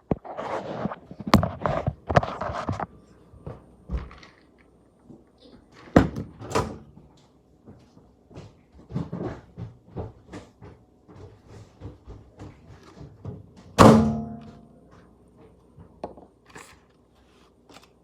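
Scattered knocks, clicks and thuds of objects being handled and set down. The loudest is a single thunk about fourteen seconds in, which rings briefly.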